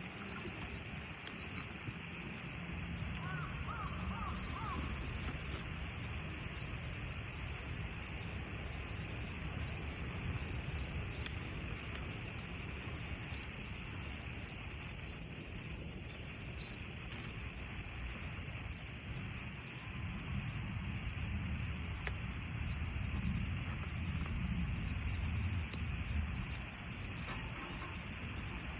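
Autumn crickets and other insects trilling steadily in the woods, over a low rumble; a brief small chirp sounds about three seconds in.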